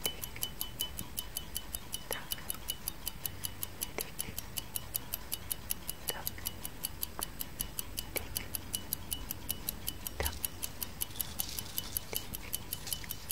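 Clock ticking sound effect, an even tick-tock of several ticks a second, with a fainter single swishing sound every second or two.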